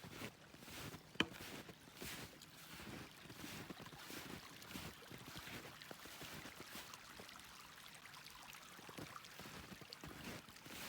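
Snowshoe footsteps crunching and swishing through fresh snow, with one sharp click about a second in.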